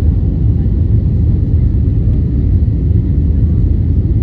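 Steady low rumble of an Airbus A320's engines and airflow heard inside the passenger cabin.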